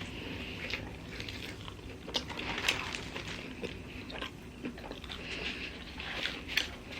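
Someone biting into and chewing a Philly cheesesteak sub on multigrain bread, with faint scattered crunches and mouth clicks.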